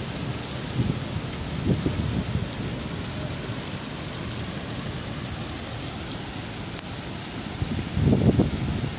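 Rain falling steadily into standing water on a paved surface, an even hiss of splashing drops. Short low rumbles rise over it about a second in and again near the end.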